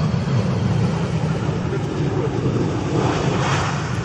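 Jet airliner engine noise: a steady rumble that grows louder and brighter about three seconds in as the aircraft draws nearer.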